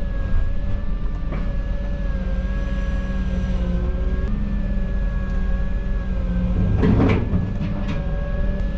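Excavator running under work, its diesel engine rumbling with a steady whine from the hydraulics that drifts slightly in pitch. About seven seconds in there is a brief scraping clatter.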